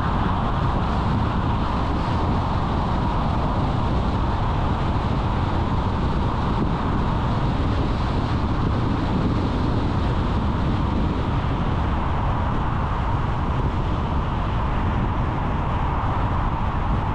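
Steady road noise of a car being driven: tyre and engine noise that runs on evenly, with no distinct events.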